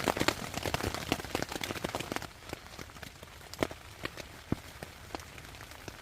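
Raindrops hitting a tent, with close dense clicking and rustling for the first two seconds, then thinning to single drops ticking every half second or so.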